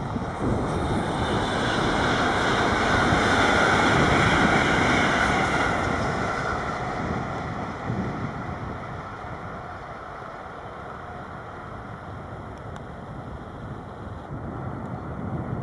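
A train passing by: rolling rush that swells to a peak about four seconds in and fades away by about eight seconds, leaving a low rumble with wind on the microphone.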